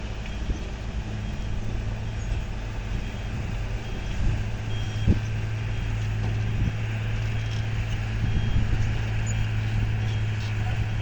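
Diesel engines of heavy earthmoving machinery, dump trucks and a loader, running steadily with a low hum, and a faint reversing alarm beeping on and off.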